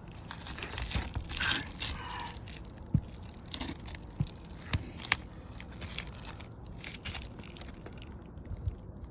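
Asphalt roof shingles being handled and worked into place: scraping and crinkling, loudest in the first couple of seconds, then several separate sharp knocks.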